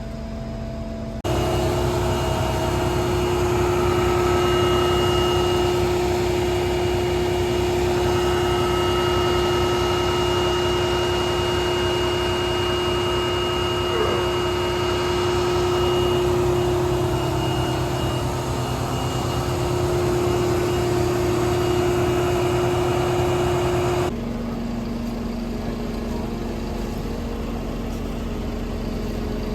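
A large engine running steadily, with a steady hum and a thin high whine above it. The sound jumps louder about a second in and drops back abruptly near the end.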